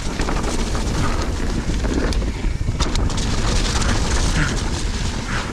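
Wind buffeting the helmet or bike camera's microphone as a mountain bike rides down a muddy trail, with scattered knocks and rattles from the bike over the rough ground.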